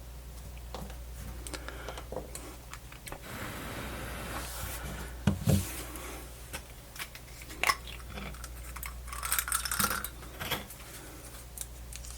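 Small irregular clicks, taps and rustles of tiny plastic and metal parts and tools being handled on a workbench, with two louder knocks about five seconds in, over a low steady hum.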